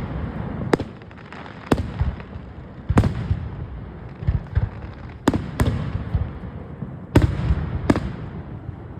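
Aerial fireworks bursting: about seven sharp bangs at uneven intervals, some in quick pairs, with smaller pops and a low rumble between them.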